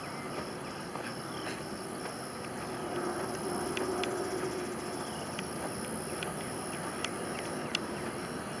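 Quiet outdoor background with a steady hiss and a faint high repeating tone, crossed by light scattered ticks like footsteps on a trail; a faint low hum swells and fades in the middle.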